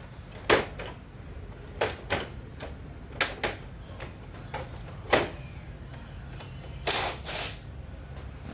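Sharp clicks and knocks of hard objects being handled, about ten scattered irregularly, over a low steady hum.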